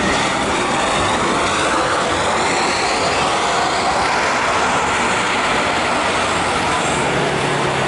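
Jet airliner passing close by, its engine noise loud and steady with a pitch that slowly falls.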